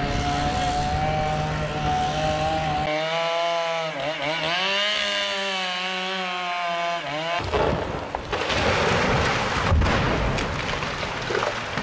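A chainsaw engine running at high speed, its pitch dipping and climbing again as the throttle changes. After about seven seconds it gives way abruptly to loud, noisy cutting or machinery sounds with sharp knocks, one heavy thud standing out near the end.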